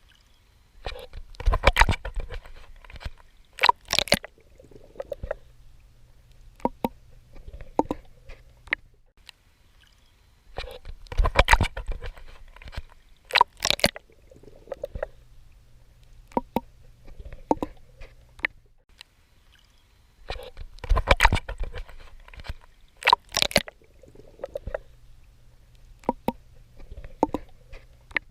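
Swimming in water: clusters of splashing, sloshing strokes in three bursts about ten seconds apart, with scattered drips and gurgles in between.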